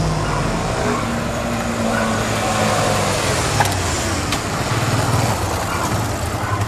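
Single-cylinder Honda trail motorcycle engine running, its pitch shifting up and down several times as the throttle changes.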